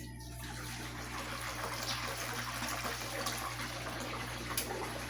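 Steady water noise inside a Consul 12 kg washing machine loaded with bed sheets: water running and sloshing in the tub, with a low steady hum underneath and one short click near the end.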